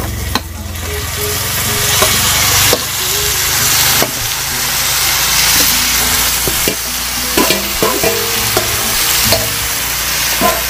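Food frying with a steady sizzle in a pan while it is stirred, with short scrapes and knocks of the spatula against the pan at irregular moments.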